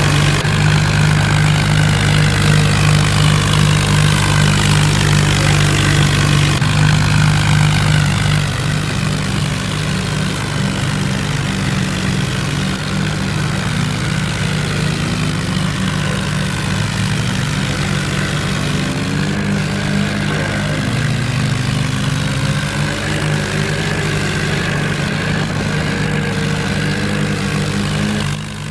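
A vehicle engine running steadily, with a drop in loudness about eight seconds in.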